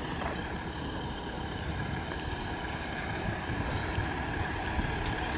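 Steady outdoor background noise: a low rumble and hiss with wind on the microphone and a faint steady hum.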